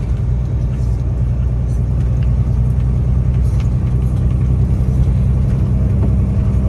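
Loaded tractor-trailer's diesel engine running steadily while driving, heard from inside the cab as a low drone with road noise.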